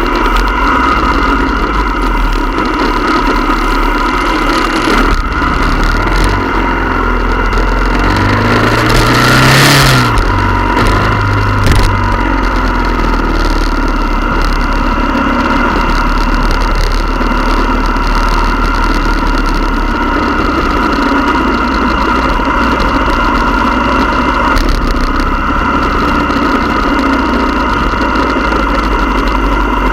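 Motorcycle engines running steadily. About nine to ten seconds in, one engine revs up and back down with a brief loud rush of noise, and there is a short knock a couple of seconds later.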